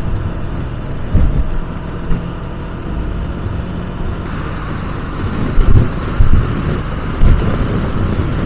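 Riding noise from a Honda CB500X motorcycle under way: steady wind and road noise over the microphone, with low gusty thumps of wind buffeting now and then.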